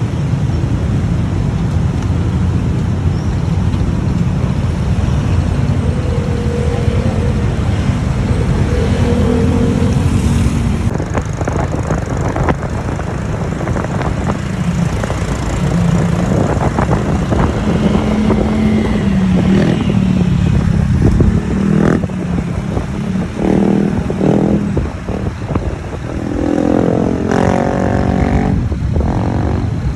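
Motorbike riding through city traffic: a steady engine and road rumble, with another engine revving up a couple of seconds before the end.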